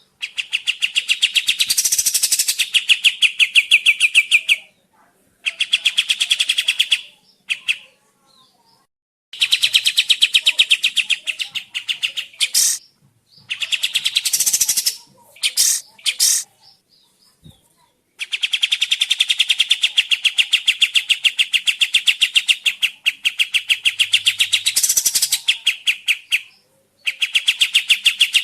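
Kapas tembak songbird singing in long, very fast rattling trills of repeated notes, several bouts of a few seconds each broken by short pauses.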